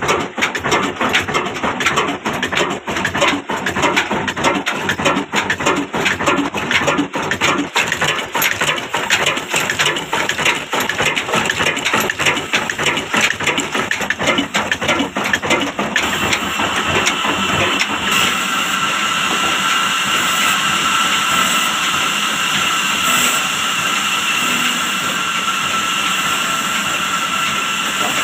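Old Ruston & Hornsby diesel engine running with a rapid, even knocking of several beats a second. About sixteen seconds in, the knocking gives way to a steady, high, even whine.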